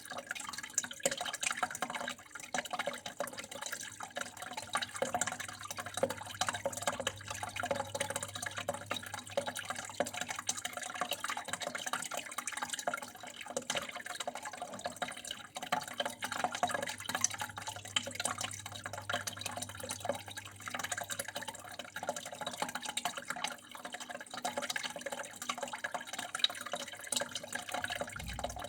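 Water flowing and trickling continuously, with many small splashes and drips, over a steady low hum.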